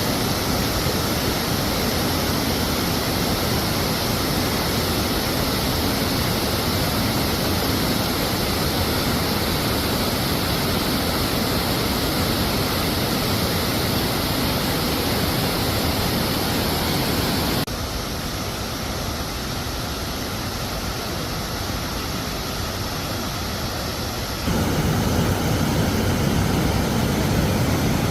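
Mae Ya waterfall's water falling and rushing, a steady full roar of water noise. It turns suddenly quieter and thinner about 18 seconds in, then suddenly full again some six seconds later.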